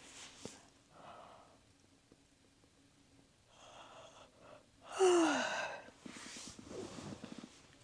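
A woman's deep breath in, then a loud voiced sigh falling in pitch about five seconds in.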